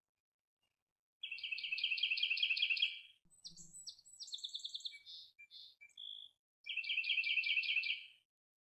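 A songbird singing: a fast, even trill of repeated high notes starting about a second in, a run of varied chirps and whistles, then the same trill again near the end.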